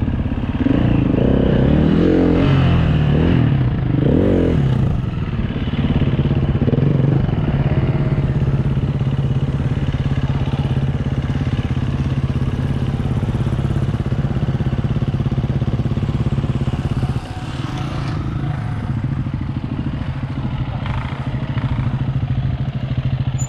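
KTM enduro dirt bike engine blipped up and down a few times, then running steadily at low revs.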